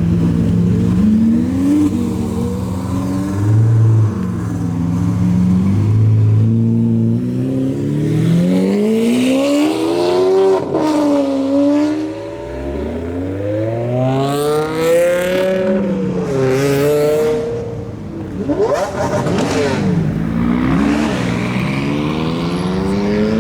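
Car engines idling, then revving and accelerating hard as cars pull away. The pitch climbs in long sweeps and drops back at gear changes; the longest pull runs through the middle of the stretch, and a quick rev follows.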